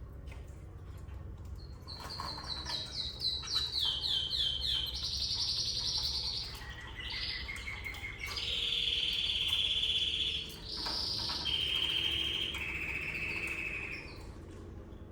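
Domestic canary singing. About two seconds in comes a run of quickly repeated falling notes, followed by a series of rapid rolling trills, each held a second or two at a different pitch, until near the end.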